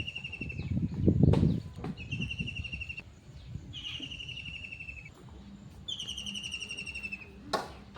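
A bird repeating the same short trilled call four times, each a rapid run of notes falling slightly in pitch over about a second. A low rumble rises and falls about a second in, and a sharp click comes near the end.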